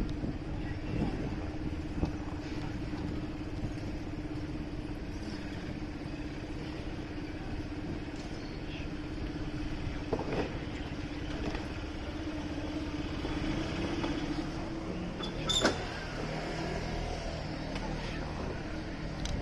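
Motorcycle engine running with city street traffic noise and a steady drone. A sharp click comes about three-quarters of the way through, after which the engine note drops lower.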